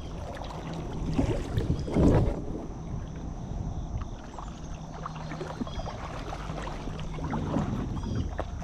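Kayak moving on the water: paddle and water noise with wind on the microphone, louder for a moment about two seconds in.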